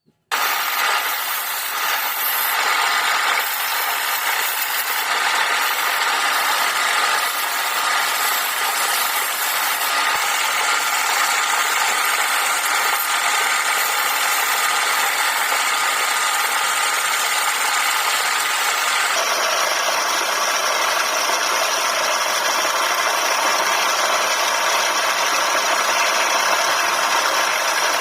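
Wood lathe running steadily while wood is being turned, a continuous motor noise with a faint whine. About two-thirds of the way through the sound shifts to a somewhat different, steadier tone.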